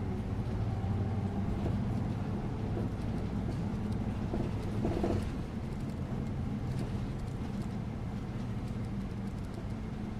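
Bus interior ride noise: steady low engine and road rumble with faint scattered rattles, briefly swelling about five seconds in.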